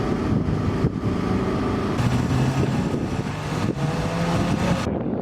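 A car engine running close by, its pitch shifting, with a brief rise in revs about four seconds in.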